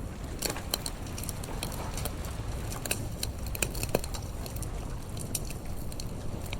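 Campfire crackling with irregular sharp pops and snaps over a steady low rumble of the sea.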